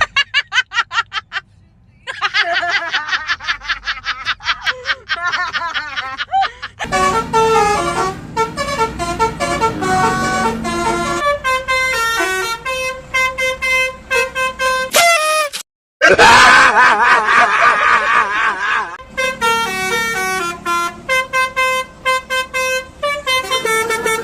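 A string of multi-tone 'telolet' bus horns playing short tunes, stepping from note to note, with stretches of wavering, warbling tones. The string is broken by abrupt cuts, one about a second and a half in and one near the middle.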